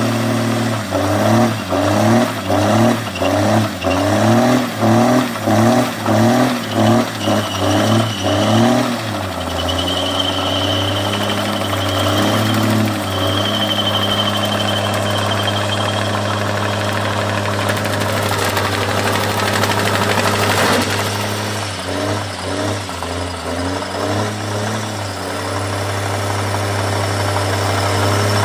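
Cummins diesel engine revved in a quick series of about a dozen throttle blips, then held at a steadier speed with a high thin whistle coming and going. A single sharp crack comes about two-thirds of the way through, followed by another short series of revs.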